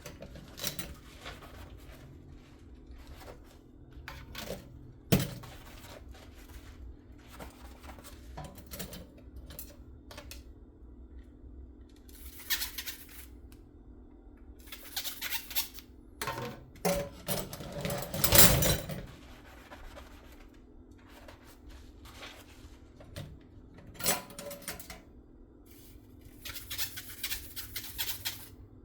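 Dishes being hand-washed at a sink: irregular clinks and knocks of dishware with short bursts of scrubbing or water, over a steady low hum. The loudest burst comes about two-thirds of the way through.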